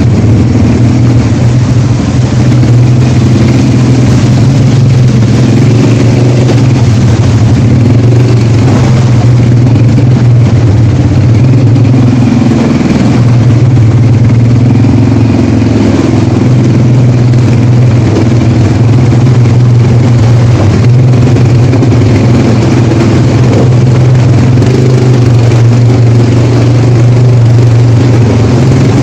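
ATV engine running steadily under way, its pitch wavering up and down as the throttle changes.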